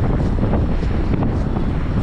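Steady rushing of flood water released through the dam's open spillway gates, with wind buffeting the microphone.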